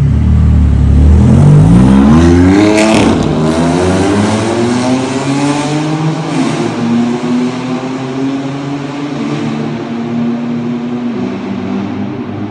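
BMW F82 M4 Competition's twin-turbo straight-six exhaust, echoing in a tunnel. The engine revs hard with a steeply rising note for about three seconds, then gives a sharp crack. After that it runs at a steady, slowly rising drone, and the pitch steps down about eleven seconds in.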